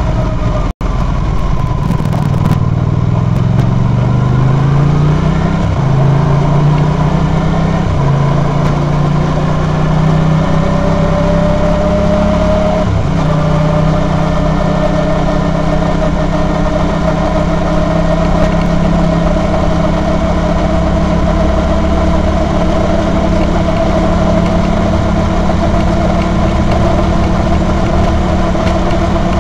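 Honda VT250F's 250 cc V-twin engine heard from on board the motorcycle, pulling up through the gears. Its pitch climbs and drops back with three upshifts in the first thirteen seconds or so, then holds steady at cruising speed in a road tunnel. The sound cuts out briefly under a second in.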